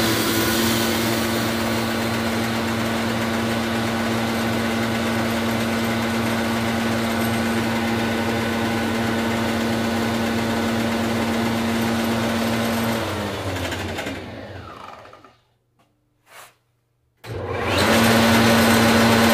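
Rebuilt Bosch alternator, fitted with a new bearing, spinning on a test bench, driven by the bench motor with a steady whine. About 13 seconds in it is switched off and spins down with a falling pitch to a stop, then starts up again near the end.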